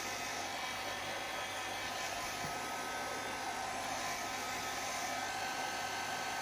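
Small hairdryer (a TRESemmé hot-air brush with the brush end removed) running steadily, a constant rush of air with a faint steady whine.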